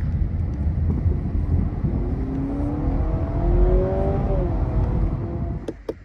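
2025 Honda Civic Hybrid running with a steady low rumble; about two seconds in a whine of several tones rises in pitch, then bends down and fades a couple of seconds later. The sound drops away suddenly near the end.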